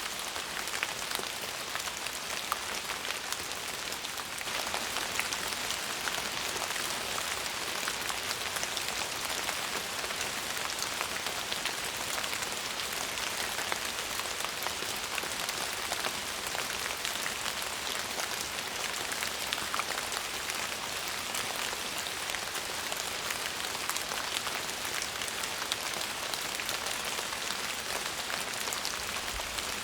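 Steady rain falling, a continuous hiss dense with small drop ticks, getting slightly louder about four seconds in.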